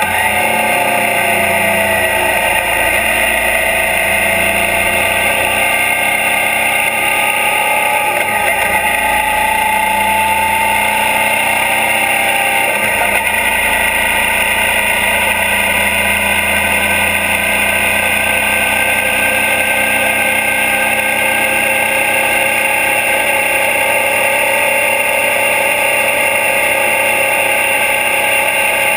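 2012 Suzuki DL650 V-Strom's 645 cc V-twin engine running under way, recorded right beside the engine. Its pitch dips over the first few seconds, climbs gently, then holds steady at cruise.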